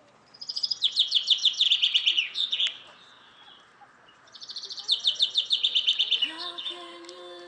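Bird song: two bursts of rapid high chirps, each about two seconds long with a pause between. Near the end a steady held musical tone comes in.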